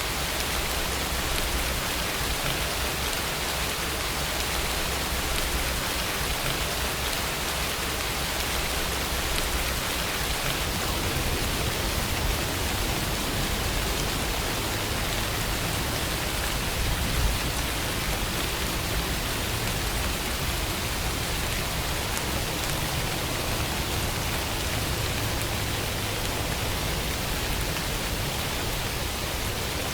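Steady rainfall, an even hiss of rain falling on surfaces, with some low rumbling mixed in.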